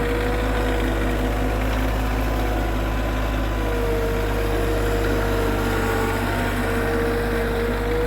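Tractor engine running steadily, with a steady whine over it that drops away for a couple of seconds and then comes back.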